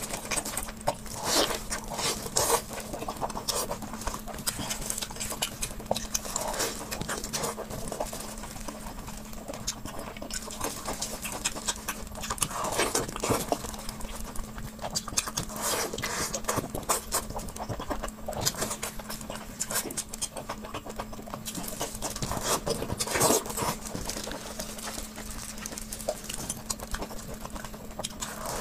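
A person chewing and smacking food close to the microphone, with many irregular short wet clicks from the mouth. A faint steady hum runs underneath.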